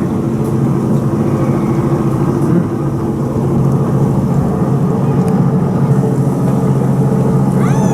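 A steady low mechanical hum, like a motor or engine running, with a short high rising squeal near the end.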